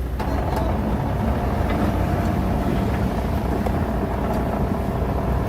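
Diesel engine of heavy earthmoving equipment running steadily under load, a low, continuous drone.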